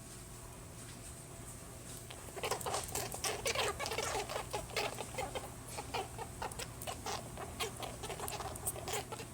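A rabbit making a quick, irregular run of short sounds, starting about two seconds in after a quiet start.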